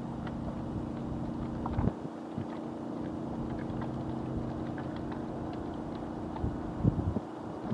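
Small waves lapping and splashing against the reservoir shore, with a sharper splash a couple of seconds in and a few more near the end. A steady low engine hum runs underneath.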